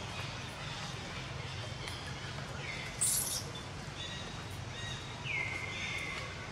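Outdoor ambience with birds calling: short, clear, whistled calls that drop in pitch and then hold, the clearest two about three and five seconds in, over a steady low background rumble. A brief hiss about three seconds in is the loudest moment.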